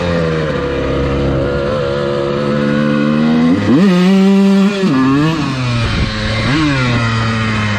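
Dirt bike engine running under throttle, revving up sharply about three and a half seconds in, holding high for about a second, then dropping back with two short blips of throttle after.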